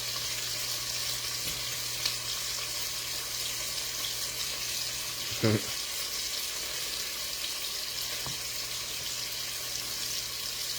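Lamb chops frying in a pan: a steady sizzling hiss, with a steady low hum underneath.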